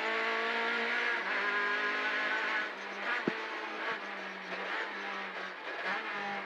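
Lada 2107 rally car's four-cylinder engine pulling hard at high revs in the cabin, then dropping off about three seconds in as the car lifts and slows for a chicane, with a single sharp crack; the engine then runs on at a lower, quieter note.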